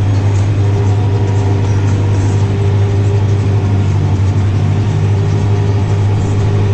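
Tractor engine running steadily under load while driving a mower through the PTO, a constant low drone with no change in pitch.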